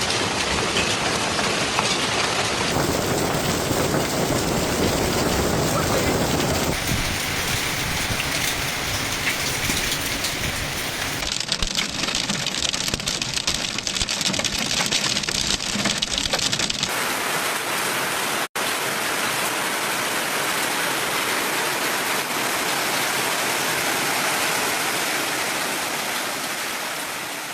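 Heavy rain pounding on surfaces in several clips cut together, the sound changing abruptly a few times and breaking for an instant about two-thirds of the way through; in the middle stretch it becomes a dense patter of many small hits.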